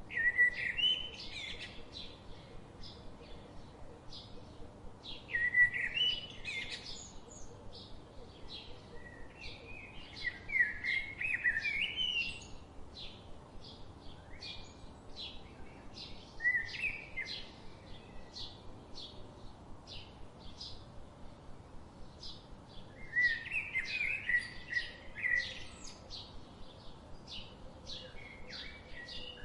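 Birds singing: warbling song phrases every few seconds, over a steady series of short high chirps about two a second.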